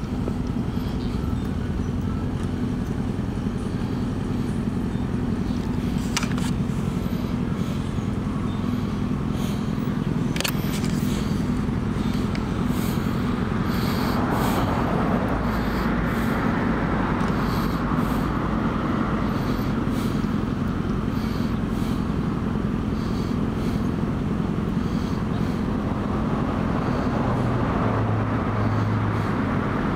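Steady low hum of an idling vehicle engine. A broader rushing sound, like a passing vehicle, swells and fades about halfway through, and there are two sharp clicks before it.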